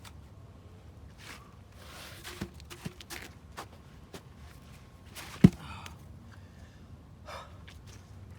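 Footsteps and rustling of someone moving about, with scattered small knocks and one sharp, loud knock about five and a half seconds in.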